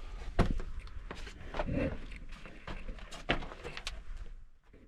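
Irregular scrapes, scuffs and knocks of a person belly-crawling over cave rock and grit in a tight passage, with rustling clothing and handling noise on the microphone. The sounds thin out toward the end.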